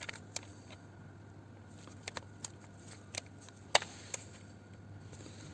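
Hand tools working the engine's oil sump bolts: scattered sharp clicks and taps, about eight in all, the loudest about three-quarters of the way through, over a steady low hum.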